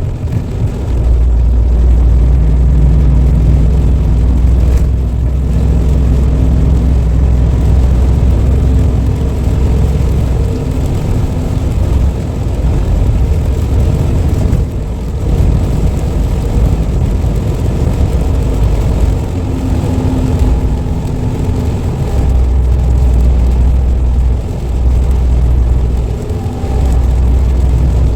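Semi-truck's diesel engine and road noise while driving, a steady low drone that eases off briefly about halfway through and again near the end.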